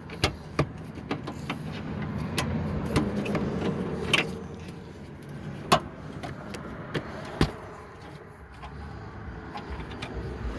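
Hand ratchet and socket working the fender's upper bolts loose: scattered metallic clicks and knocks, with a longer rasping stretch about two to four seconds in.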